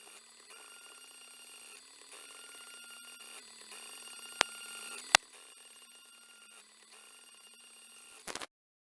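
3D printer stepper motors whining in repeated strokes of about a second each, the pitch steady within each stroke. Two sharp clicks come about halfway through, and the sound stops abruptly near the end.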